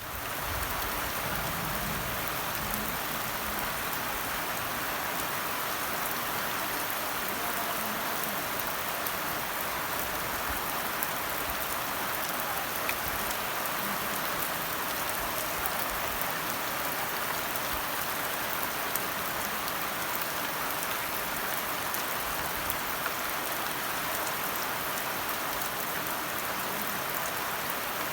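Steady rainfall, a continuous hiss of rain with scattered individual drop ticks, fading in at the very start.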